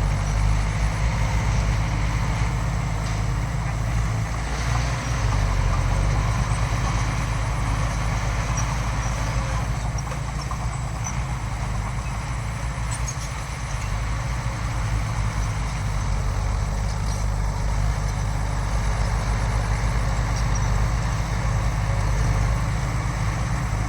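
Heavy diesel engine of earthmoving machinery running steadily, with a low, even engine note.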